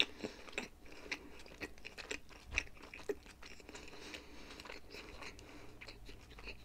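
A person chewing a mouthful of Turkish pizza close to the microphone: soft, irregular chewing clicks and smacks.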